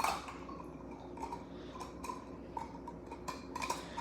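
Scattered light clicks and clinks of small plastic toy cars being handled, with a sharper knock right at the start and a few quick clicks near the end.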